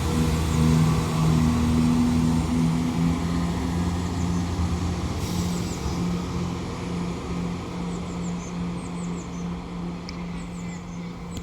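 CrossCountry Class 170 Turbostar diesel multiple unit pulling out of the station, its diesel engines running with a steady note that fades as it moves away. Small birds chirp in the second half.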